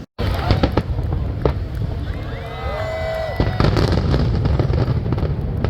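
Aerial fireworks bursting and crackling in quick succession over a continuous low rumble of shell explosions.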